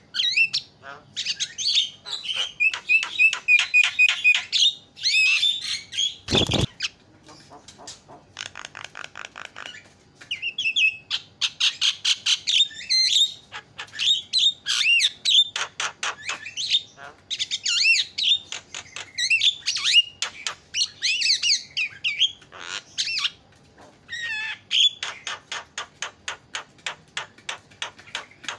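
Javan myna calling loudly: fast runs of harsh, chattering and squawking notes, many per second, with short whistled phrases between them. One sharp knock about six and a half seconds in.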